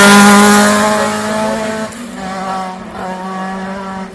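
Rally car engine running hard at a high, fairly steady note, loud at first and then fading as the car moves away, with a clear drop in level about two seconds in.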